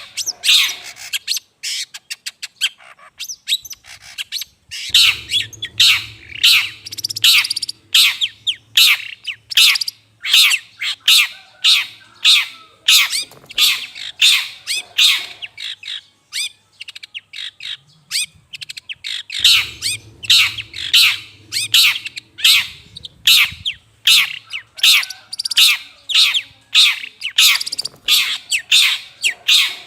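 Long-tailed shrike (cendet) giving rapid, repeated harsh, scratchy calls, about two a second, with a sparser stretch a couple of seconds in. This is the call played as a lure to draw in cendet.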